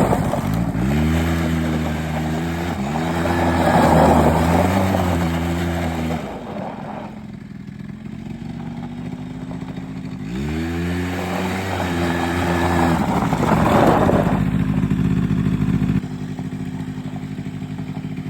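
Small 100cc quad (ATV) engine revving in several rises and falls, dropping to a low run in the middle, revving up once more, then settling to a steady idle near the end.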